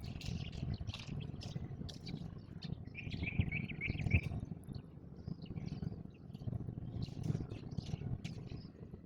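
House sparrows chirping in short scattered notes, with a quick run of about six chirps around three seconds in, over a low rumbling background noise.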